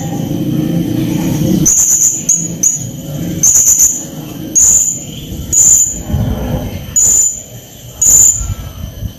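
Blue-crowned hanging parrot (srindit) giving a series of short, shrill, high-pitched calls, about one a second. A low rumble underlies the first two seconds or so.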